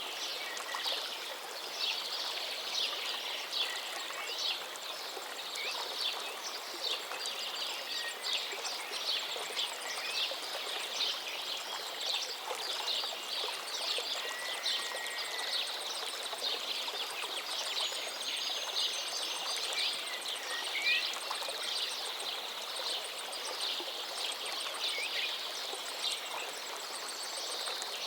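River water flowing and splashing steadily, with birds chirping now and then over it.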